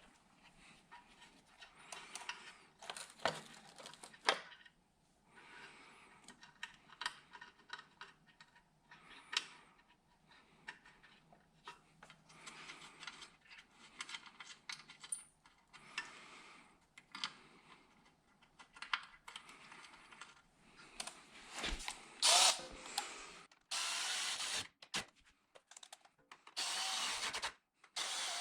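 Clinks, rustles and small knocks of hand work on parts, then a handheld power drill runs in two short, steady spells of about a second each near the end.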